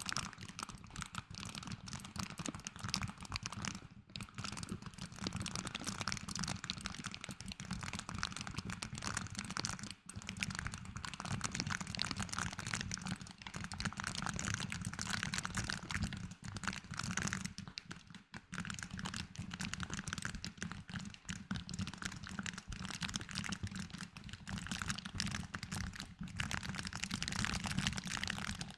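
Close-miked ASMR trigger sounds: objects handled with a dense, continuous crinkling and fine clicking, with a few brief pauses.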